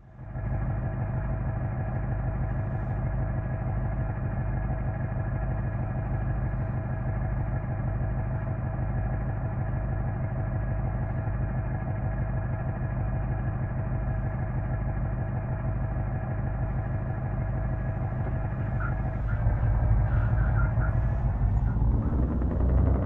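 Truck engine running at a steady speed, then louder and working harder near the end, its pitch rising as it revs.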